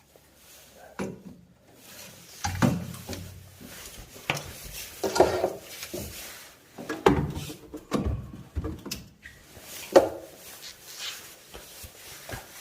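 A solenoid valve being worked loose and taken off a heating distributor by hand: irregular clicks, knocks and rubbing of plastic and metal parts, with a few sharper knocks spread through.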